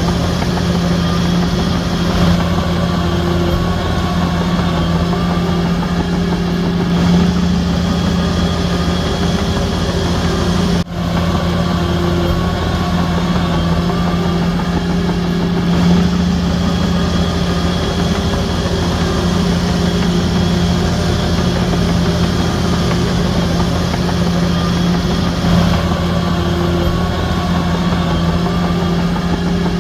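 Shantui DH17C3 bulldozer's diesel engine running steadily under load with a constant low hum and slight swells, cut off by a brief dropout about eleven seconds in.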